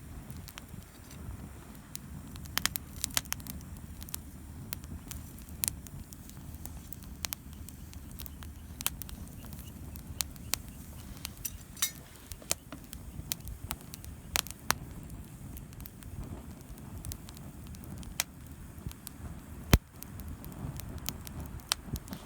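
Wood campfire crackling, with irregular sharp pops over a low steady rumble and one louder pop near the end.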